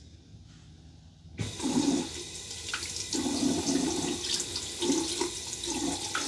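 Bathroom tap turned on about a second and a half in, water running into the sink with uneven splashing under the stream.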